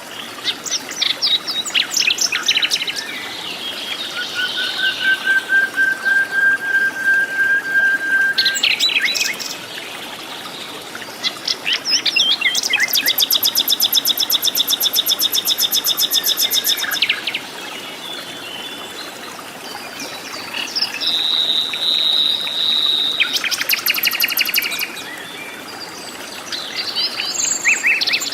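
Several wild birds calling in tropical forest, one after another: quick trilled phrases, one long level whistle held for about four seconds, and a fast rattling trill lasting several seconds mid-way.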